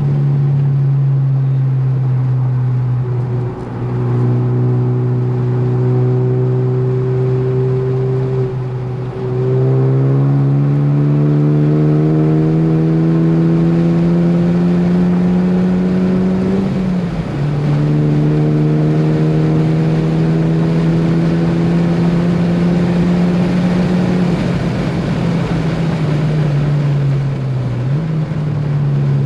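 Ford Focus ST engine under hard track driving: the pitch climbs steadily under acceleration through the middle, drops sharply at a gear change, holds, then falls away as the car slows near the end, with a short blip just before the end.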